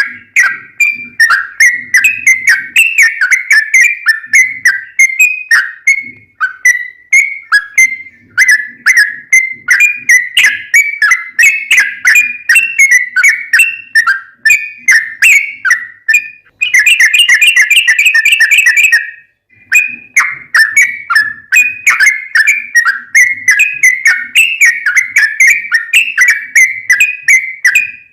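Yellow-vented bulbul (trucukan) singing a long, rapid run of short bubbly whistled notes, one after another with barely a pause. About two-thirds of the way through, the notes come in a faster, tighter run for a couple of seconds.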